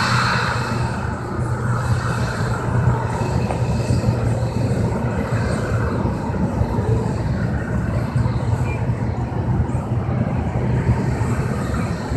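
Steady low rumble of a Boeing 737 on the ground, engines at low power, heard from inside the cabin.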